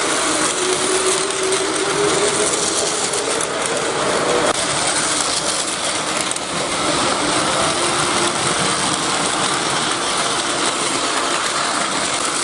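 A train running on its track: a steady, dense mechanical rattle with a faint, slowly shifting motor whine underneath.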